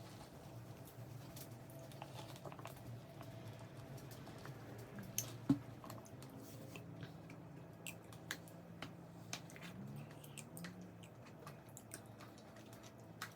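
Close-mic chewing and mouth sounds of someone eating a KFC fried-food meal: scattered small wet clicks, with a sharper click about five and a half seconds in. A low steady hum runs underneath.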